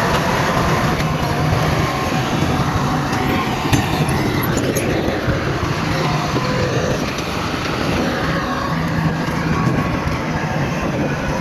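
Diesel engine of heavy earthmoving machinery running steadily, with a low hum, and a few faint clicks about four seconds in.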